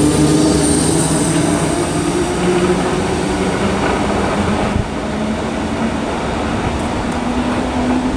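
Electric multiple-unit train (Class 455, 456 and 458 units) pulling out of the station: a steady run of wheel and motor noise with a hum that shifts in pitch, a little quieter about five seconds in.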